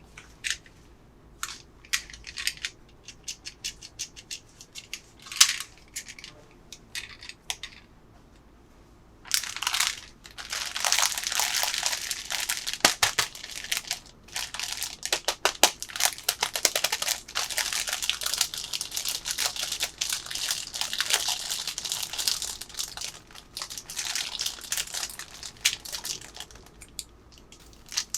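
Packaging crinkling as it is handled and opened: scattered small clicks and crinkles at first, then, about nine seconds in, dense, continuous crinkling that lasts most of the rest.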